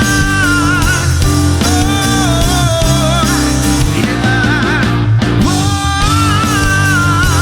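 Live rock band playing an instrumental passage of a pop-rock ballad: a lead melody line that bends and wavers with vibrato, over sustained guitar chords and bass.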